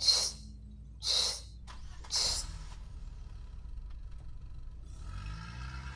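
Three short hissing spurts about a second apart as oil is pumped from a nozzle into a road roller. About five seconds in, an engine starts up with a low hum that rises in pitch.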